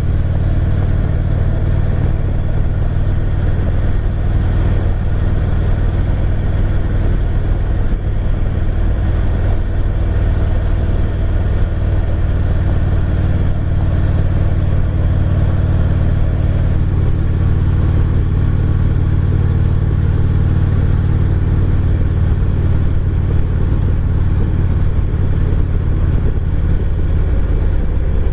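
Motorcycle engine running steadily at cruising speed, heard from the rider's seat with road and wind noise; the engine note shifts slightly near the end.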